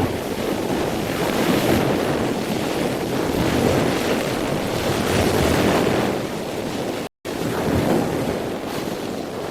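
Rushing floodwater, a steady heavy noise with no distinct events, broken by a sudden split-second dropout about seven seconds in.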